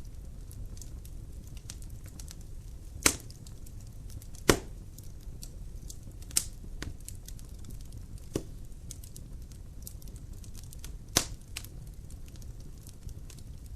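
Logs burning in a fireplace, crackling with a steady scatter of small ticks and five sharper pops at irregular intervals over a low, steady rumble.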